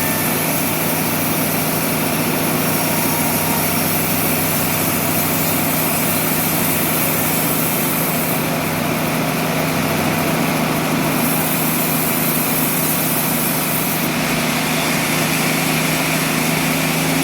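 Sawmill machinery running steadily with a constant engine-like hum.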